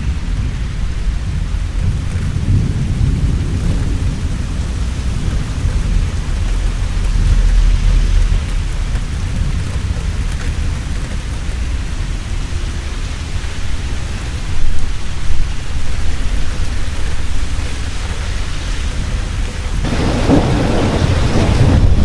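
Heavy rain falling steadily with rolling thunder rumbling throughout, swelling several times; two sharp loud cracks come about two-thirds of the way in, and a fresh burst of thunder builds near the end.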